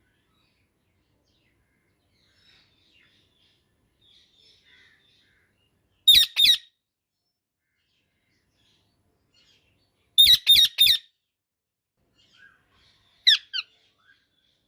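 Indian ringneck parakeet calling with loud, short, high calls in groups: two about six seconds in, three in quick succession about ten seconds in, and two more near the end, with soft chirps before them.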